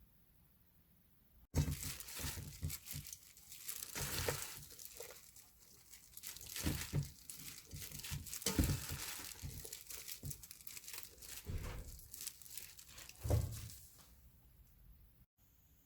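Irregular crinkling and rustling with sharp crackles, starting and stopping abruptly.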